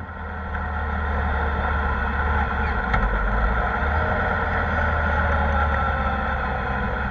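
Kawasaki ZR-7S motorcycle's air-cooled inline-four engine running at a steady pace while riding, heard onboard with road and wind noise.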